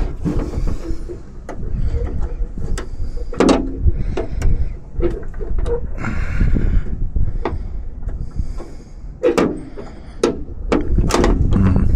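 Irregular clicks, taps and knocks of small metal hardware being handled in a car door's latch mechanism: a clevis pin being tried in the door latch and its rod, over a low rumble of handling noise.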